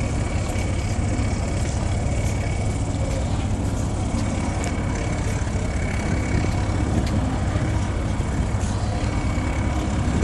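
Fishing boat's engine running steadily, a continuous low rumble with a faint steady whine above it.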